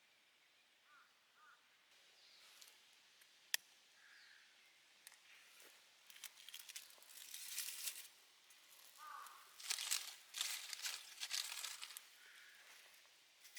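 Bursts of rustling and crinkling, as of something being handled, with a single sharp click about three and a half seconds in.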